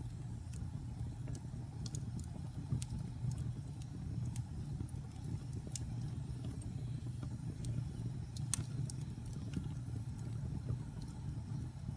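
Wood fire burning in a fireplace: a steady low rumble of flames with scattered sharp crackles and pops, the loudest pop about eight and a half seconds in.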